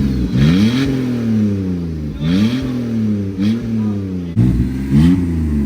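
Car engine with its muffler cut off, revved several times, each rev climbing and falling back toward idle. Loud open-exhaust note.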